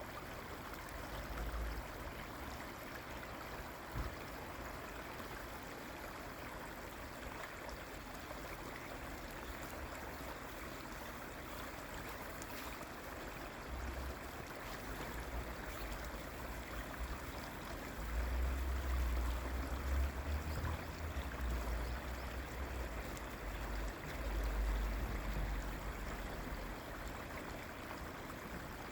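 Steady rushing of flowing stream water, with bouts of deep low rumble in the second half.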